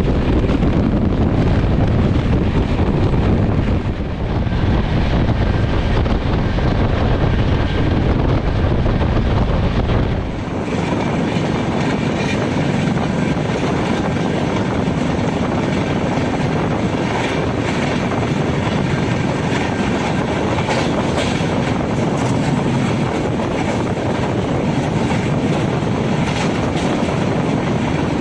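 Passenger train running at speed: steady noise of the coaches on the rails. About ten seconds in, the sound changes abruptly, losing much of its deep low end and gaining more hiss.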